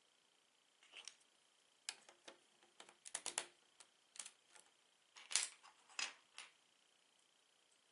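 Plastic Lego bricks being handled and clicked together: a scatter of sharp light clicks and rattles, with a quick cluster a little over three seconds in and the loudest clicks around five to six seconds in.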